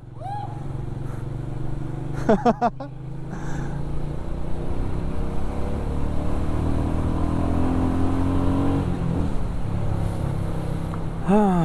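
Motorcycle engine running under way, its note rising steadily as the bike accelerates from about five seconds in, then easing off about nine seconds in. A couple of short vocal sounds come near the start.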